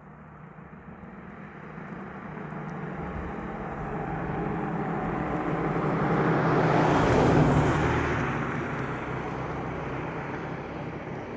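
A motor vehicle driving past: its engine and tyre noise swell slowly, are loudest about seven seconds in, then fade away.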